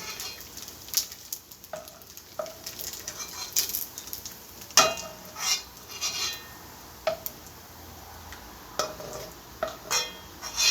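A cooking utensil knocking, scraping and clinking against a frying pan as fried bacon is lifted out, in a dozen or so separate strokes, some ringing briefly. Faint sizzling of the hot bacon fat runs underneath.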